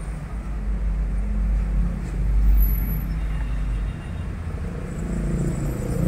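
Steady low rumble of a running vehicle engine that shifts about four seconds in, with a pitched hum rising near the end.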